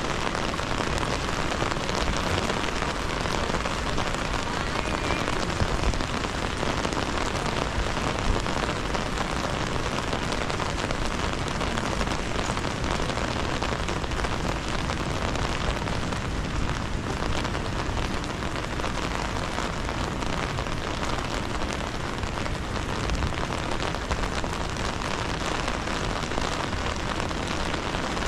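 Steady rain falling and pattering on hard surfaces, an even hiss with scattered drops.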